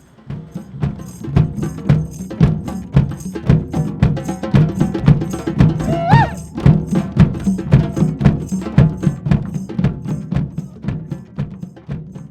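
Group hand drumming, as in a drum circle: many drums struck together in a fast, steady rhythm with a deep, booming tone.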